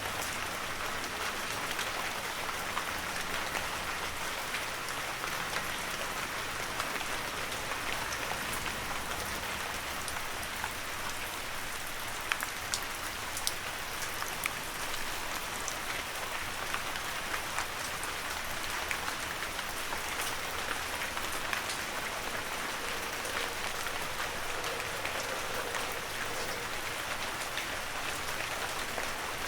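Heavy rain falling steadily, with scattered sharper drop impacts standing out from the even hiss.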